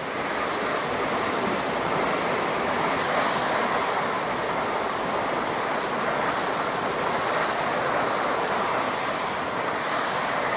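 A train passing at speed: a steady rushing roar of wheels on rail that swells up at the start, holds, and begins to fade near the end.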